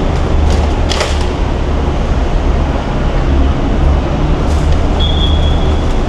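Steady low rumble of road traffic and idling vehicle engines. There is a sharp click about a second in and a short high-pitched tone near the end.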